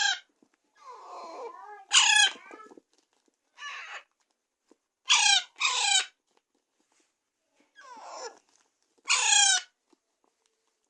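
Alexandrine parakeet chicks giving short, harsh screeching calls that fall in pitch, a loud call every few seconds, some in quick pairs, with fainter calls in between.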